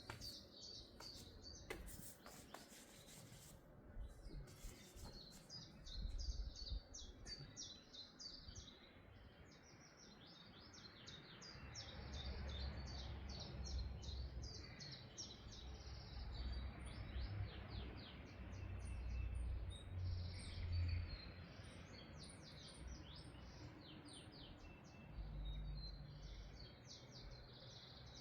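Small songbirds chirping and twittering in quick, continuous runs of high notes. A few sharp clicks sound near the start, and a low rumble swells through the middle.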